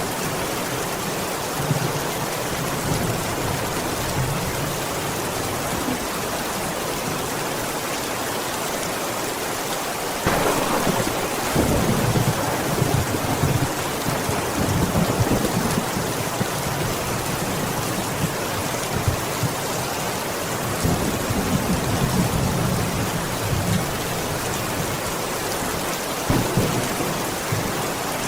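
Steady rainfall with rolling thunder: a low rumble breaks in suddenly about a third of the way through and swells again several times over the rain.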